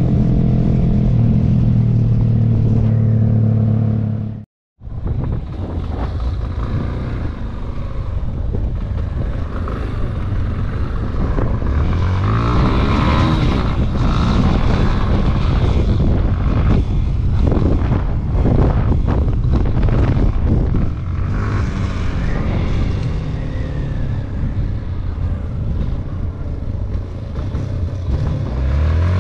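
Yamaha XTZ250's single-cylinder four-stroke engine under way. It cruises at a steady pitch at first, then after a brief dropout about four and a half seconds in it revs up and down as the bike accelerates and eases off, with wind on the helmet microphone.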